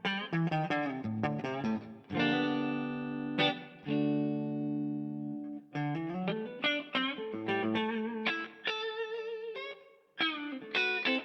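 Electric guitar played through the DVII amplifier, heard through a Torpedo Captor X cabinet simulation: picked notes and chords, with two chords left to ring out and held notes wavering in pitch later on.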